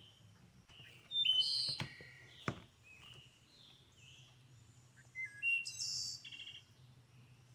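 A songbird chirping and singing in two bursts of quick high notes, the first a little after a second in and the second around five seconds in, with a couple of sharp clicks between them. A faint steady low hum runs underneath.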